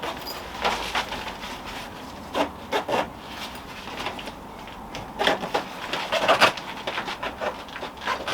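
Zip on the padded fabric insulated jacket of a portable 12 V fridge being pulled closed in several short pulls with pauses between. The zip is quite tight.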